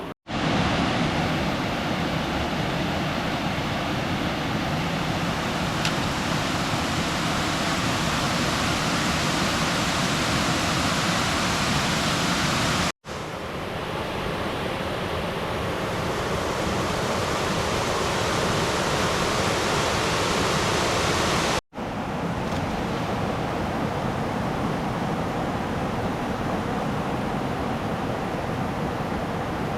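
Steady rush of river water flowing past, a dense even noise with no distinct splashes. It cuts out for an instant twice, about 13 and 22 seconds in.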